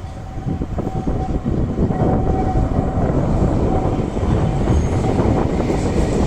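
Tram running on its rails: a rumble with a dense rattling clatter that grows louder about a second in, and a thin steady whine that comes and goes.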